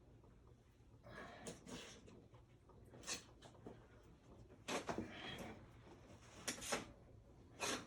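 Intermittent short scrapes and knocks of hands and tools at work, about half a dozen over several seconds after a quiet first second.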